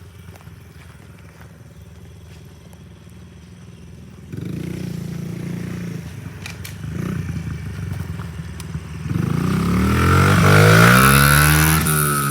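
Dirt bike engine running low and steady, getting louder about four seconds in. Near the end it revs hard, its pitch climbing and then falling.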